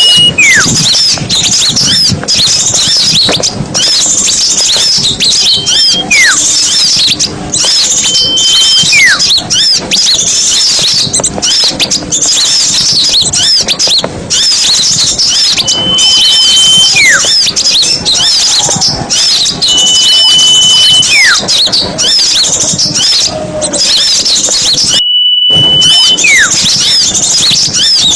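Bird-lure recording of many small songbirds chattering with dense, rapid high-pitched chirps, cut through every few seconds by a held whistle that then slides down in pitch. The sound drops out for a moment about three seconds before the end.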